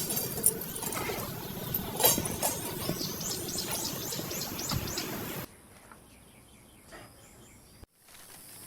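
Birds chirping over a steady outdoor background, with a quick run of short falling chirps. About five seconds in it cuts abruptly to a much quieter background.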